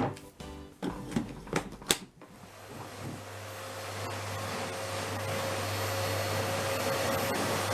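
Background music ends about two seconds in. Then a household paper-bag vacuum cleaner's motor runs as a steady airy whine over a low hum, swelling gradually louder over several seconds.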